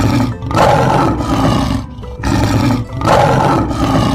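A lion roaring twice: two long rough roars of about two seconds each, back to back.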